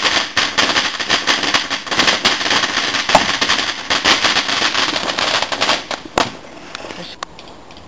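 Firework crackling in a dense, rapid string of small sharp pops, ending with a louder crack about six seconds in, after which it dies away.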